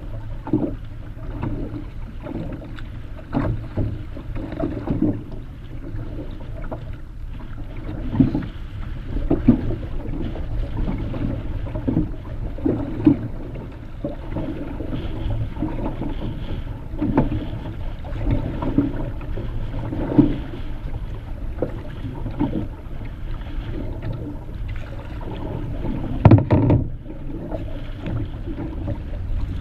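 Solo Kevlar canoe being paddled through choppy water: irregular splashes of paddle strokes and waves slapping the hull every second or two, with one louder splash about 26 seconds in. Underneath runs a steady low rumble of wind on the microphone.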